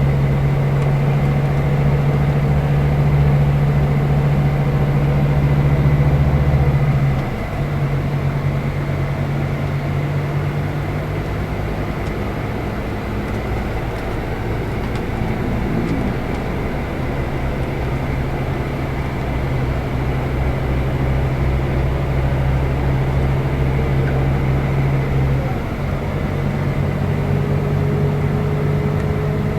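Scania K320 IB coach engine running under way, a steady low drone. Twice, about seven seconds in and again near the end, it dips briefly and settles at a new pitch, like the Opticruise gearbox changing gear.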